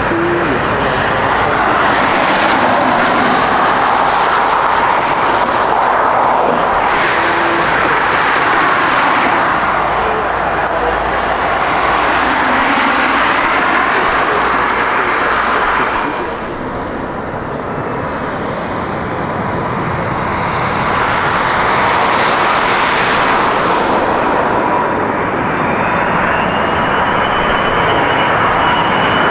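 Jet airliner engines from landing aircraft: a Boeing 777-200ER's engines run loud and steady, then after a sudden drop about halfway an Airbus A380's engines swell in as it approaches, with a rising fan whine near the end.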